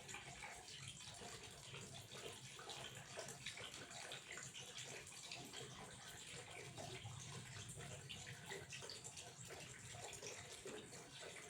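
Water running steadily and faintly, with a fine, even splashing texture.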